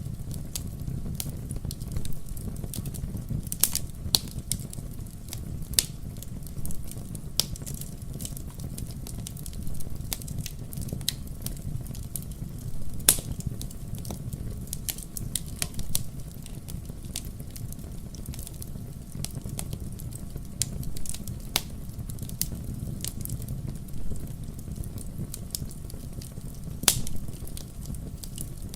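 Fire burning in a fireplace: a steady low rumble of flames with frequent irregular crackles and pops. Two pops stand out, one about halfway through and one near the end.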